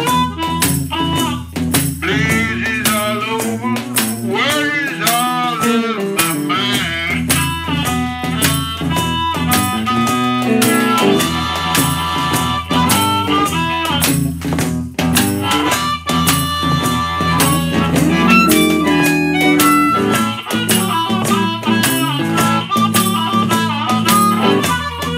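Chicago blues band playing an instrumental passage: harmonica with bent, wavering notes in the first few seconds and held notes later, over guitar and a steady scraped washboard rhythm.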